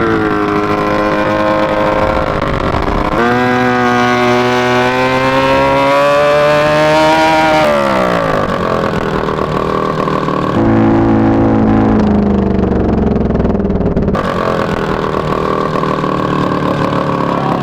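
Go-kart's 400cc snowmobile engine running hard, its pitch climbing steadily as it accelerates for several seconds and then dropping as it slows, with a few abrupt jumps in the sound.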